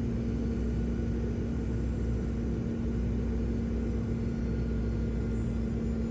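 Steady low vehicle rumble with a constant hum, unchanging throughout.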